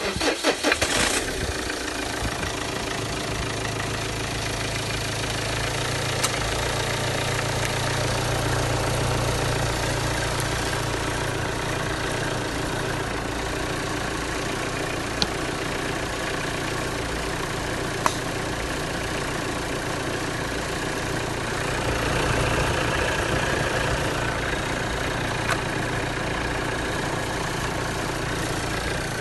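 Renault K9K 1.5 dCi four-cylinder diesel engine being started, catching within about a second and then idling steadily with diesel clatter.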